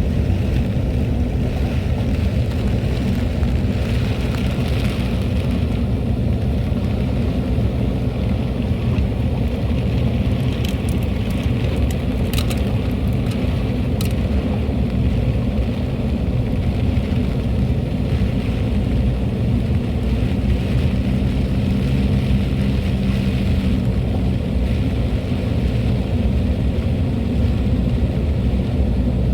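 A car's engine and tyre noise as it drives along, a steady low rumble, with a few sharp ticks near the middle.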